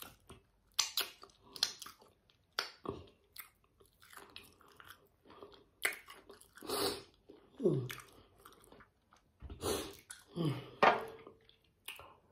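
Close-up chewing and crunching of spicy chicken feet: wet smacks and sharp crunchy clicks throughout. A few short falling vocal sighs, about three, come in the second half, reactions to the pepper heat.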